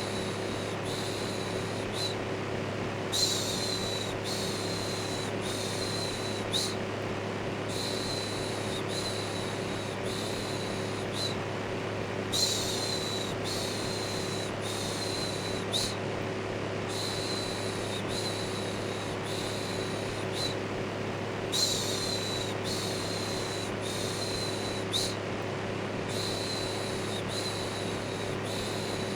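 Steady electric fan hum with a constant low drone, overlaid with looped human shushing ('shhh'). The shushes come about one a second in runs of four, with a short break between runs.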